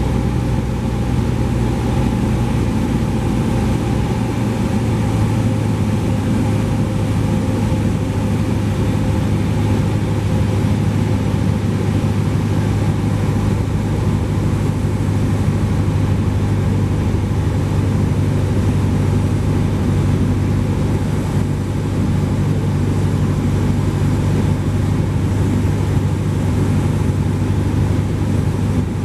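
Cessna 172P's four-cylinder Lycoming O-320 piston engine and propeller running steadily in flight: a loud, even low drone with airflow noise over it.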